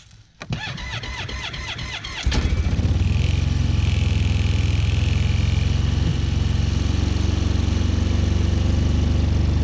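Four-stroke snowmobile engine on a new 2019 Arctic Cat Norseman 3000 being started cold. The starter cranks it for about two seconds, then it catches and settles into a steady idle. The machine is not yet broken in, and the owner finds it vibrates excessively on startup.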